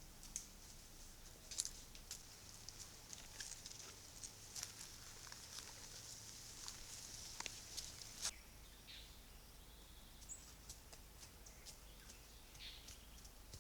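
Faint outdoor ambience: a steady high hiss with scattered small clicks and crackles, and a short high chirp about ten seconds in.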